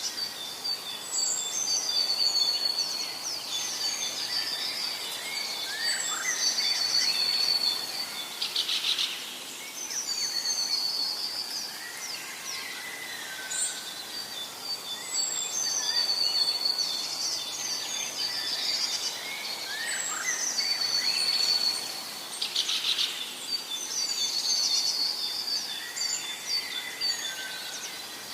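Several birds singing and calling in a forest: short chirps, whistles and trills overlapping, over a steady high dotted trill. The same run of calls comes round again about halfway through.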